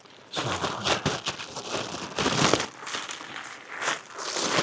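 Packaging being crinkled and torn open as a new brake rotor is unwrapped: a run of irregular rustles and crackles.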